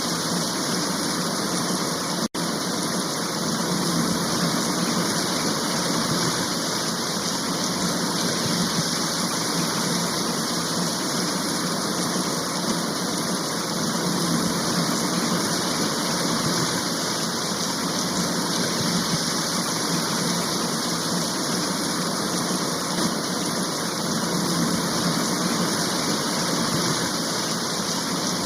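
Steady heavy rain shower, an even hiss with no let-up, broken only by a split-second gap about two seconds in.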